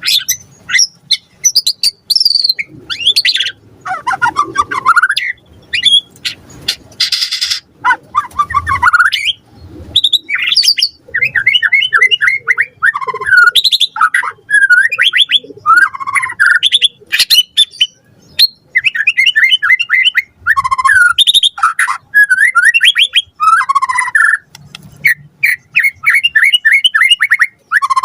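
White-rumped shama (murai batu) in full song, a steady stream of varied phrases: fast repeated trilling notes, gliding whistles, and a short harsh rasp about seven seconds in.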